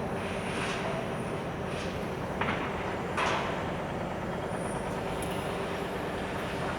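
Freight train of container flat wagons rolling steadily past on the rails, with a few brief sharp squeaks and clanks from the wheels and couplings.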